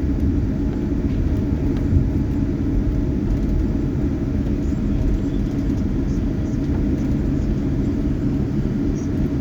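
Steady low rumble of an airliner heard from inside the passenger cabin, engines and airframe running on the ground after landing, with one small knock about two seconds in.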